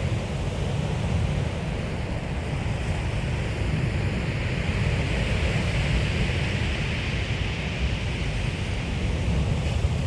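Sea waves washing onto a shingle beach, a steady surf hiss that swells and eases, with wind on the microphone as a low rumble underneath.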